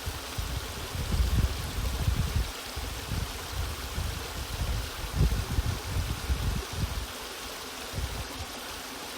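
Waterfall: a steady rush of falling water, with irregular low rumbling surges that ease off near the end.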